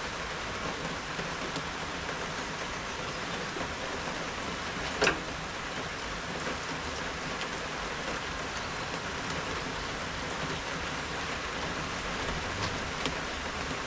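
Steady rain falling, with one sharp tap or knock about five seconds in.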